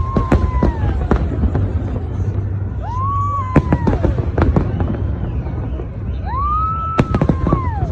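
Fireworks bursting: sharp pops and crackles over a steady low rumble. Three times, a whistle-like tone about a second long rises, holds and falls away.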